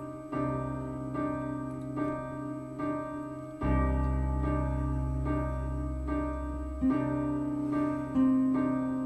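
Instrumental song intro on piano or electric keyboard: chords struck about once a second, with a low bass coming in about three and a half seconds in.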